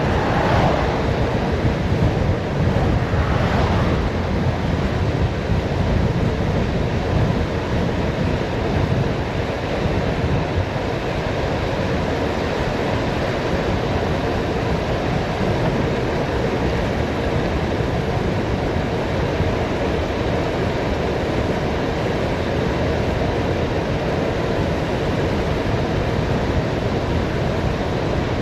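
Wind rushing over the microphone of a bicycle descending at speed, a steady loud rush with a heavy low rumble and two short brighter swells in the first few seconds.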